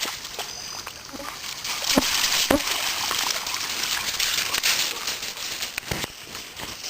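Creek water sloshing and splashing as a dog moves through it, louder in the middle, with a few sharp knocks.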